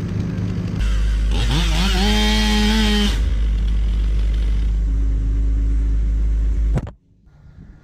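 Chainsaw revving up to full throttle about a second in, holding high for a second or so, then dropping back and running steadily until it cuts off abruptly near the end.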